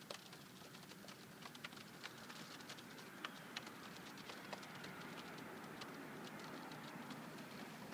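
Light, irregular clicks and taps, closest together in the first few seconds, over a steady outdoor background hiss.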